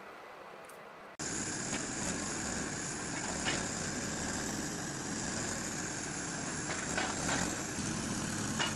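A log-handling machine's engine running steadily, starting abruptly about a second in, with a few faint clicks over it.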